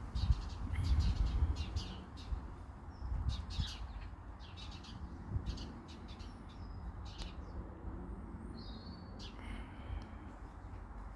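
Birds chirping in many short calls, over a low rumble that is strongest in the first two seconds.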